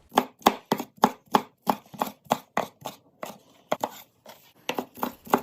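Knife chopping garlic on a cutting board in quick, even strokes, about four a second, growing sparser and more uneven after about three seconds.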